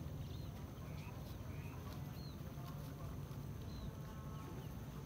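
Small birds chirping, short high arched calls every half-second to a second, over a steady low rumble.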